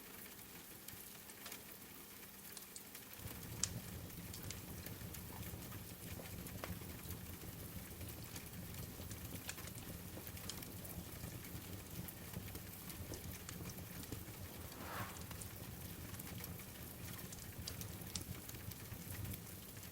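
Wood fire crackling with scattered pops over a steady rain hiss. A low rumble joins about three seconds in and carries on.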